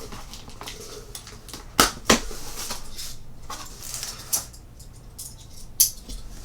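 Cardboard box and packaging being handled and opened: a few sharp knocks and clicks, the loudest two close together about two seconds in and another near the end, with rustling and scraping between.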